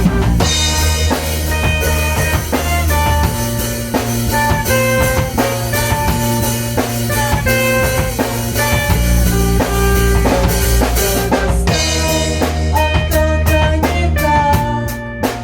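A band playing an instrumental passage: drum kit with bass drum and rimshots keeping a steady rhythm under a bass line and guitar. The drum strikes come faster in the last few seconds.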